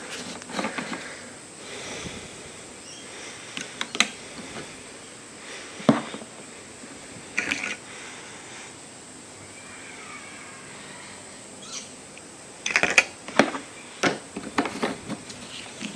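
Scattered clicks and knocks from hands working on a Fuji Micro 3700ER generator, with a cluster of them near the end; the engine is not running.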